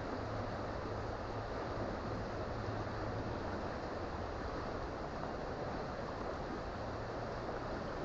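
Creek water flowing steadily, an even rushing with a faint low hum beneath it.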